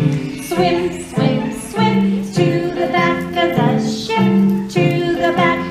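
Children singing an opera number over a recorded instrumental accompaniment, with a steady run of pitched notes and chords.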